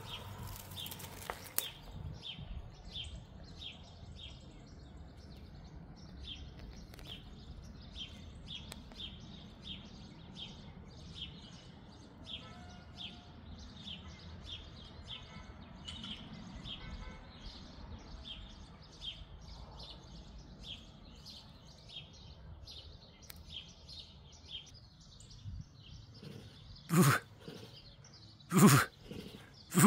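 A bird chirping over and over, about two short chirps a second, over faint outdoor background. Near the end come three loud, short calls, about a second and a half apart.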